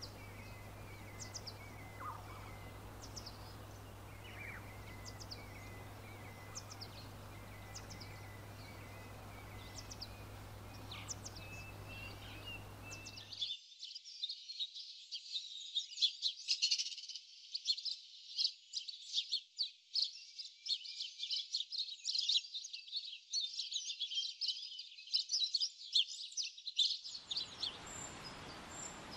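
Birds chirping and calling: repeated short high calls over a steady background hiss with a low hum. About halfway through, the sound cuts abruptly to a denser chorus of high chirping with no low background, which fills out again near the end.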